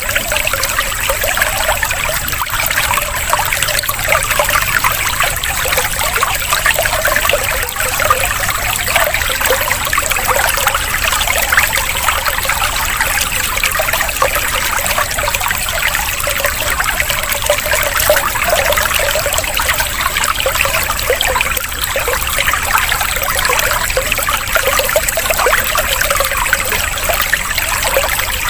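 Steady trickling, splashing water, an unbroken flow like a small stream or fountain, used as a water-sound relaxation track.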